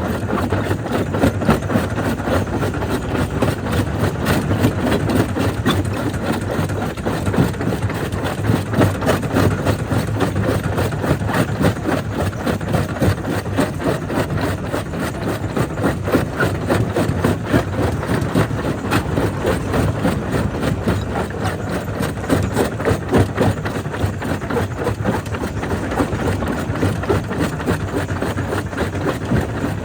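Jaw crusher running steadily, with a constant low machine hum under a dense, irregular clatter of stone being cracked and crushed.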